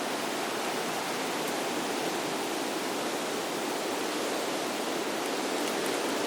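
Steady rush of flowing water, an even hiss without rhythm.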